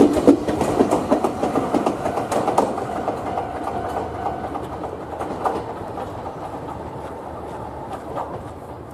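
Electric commuter train pulling out and running away, its wheels clacking over the rails. The sound fades steadily as it recedes.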